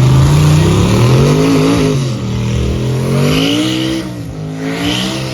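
A car's engine revving, its pitch climbing and dropping several times, with a high hissing screech about three seconds in and again near the end.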